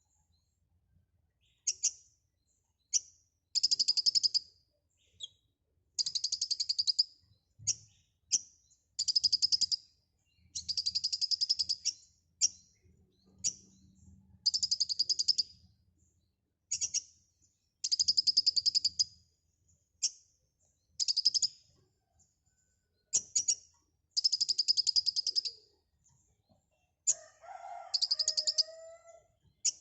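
Kolibri ninja sunbird singing: a string of high, rapid, buzzy trills, each from a split second to about a second and a half long, repeated with short pauses. Near the end a lower, wavering call sounds beneath one of the trills.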